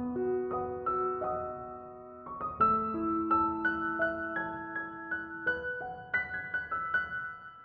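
Soft background piano music, single notes and chords struck one after another, fading out near the end.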